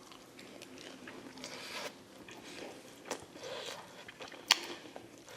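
A person eating close to the microphone: quiet biting and chewing of food, with a few sharp clicks, the loudest about four and a half seconds in.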